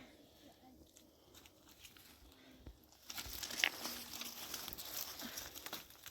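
A crinkling, crackling noise made of many small clicks, which grows louder about three seconds in.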